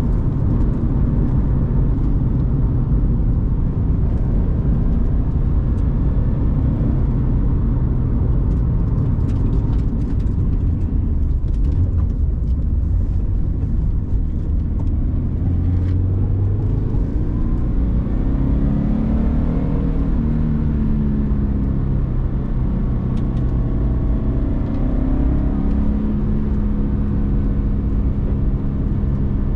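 Turbocharged Scion FR-S's 2.0-litre flat-four boxer engine running steadily while the car is driven, with road noise underneath. In the second half the engine note rises and falls a couple of times as the car accelerates and backs off.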